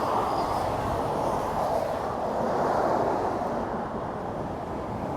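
Interstate highway traffic passing below: a steady rush of tyre and engine noise that swells about two seconds in and eases off near the end.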